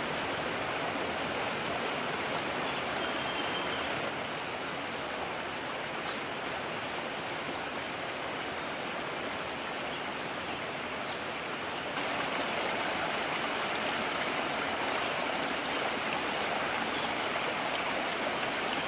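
Mountain stream running with a steady rush of water. The sound shifts a little in level about four seconds in and again about twelve seconds in.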